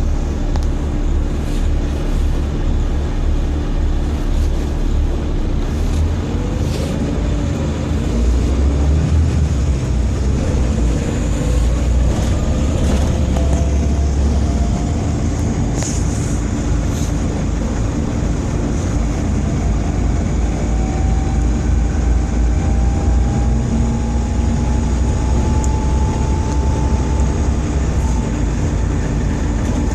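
Volvo B7TL double-decker bus's 7-litre six-cylinder diesel engine running under way with a heavy low rumble, the engine vibrating badly. A whine rises slowly in pitch in the second half.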